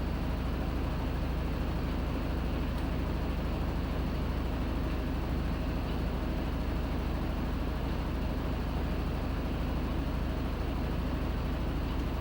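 Panasonic NA-FA100H9 top-loading washing machine running, a steady low hum and drone with no change in level.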